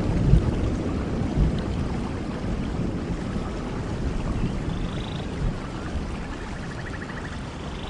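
Steady rain with low thunder rumbling and slowly dying away. A few faint chirps sound in the second half.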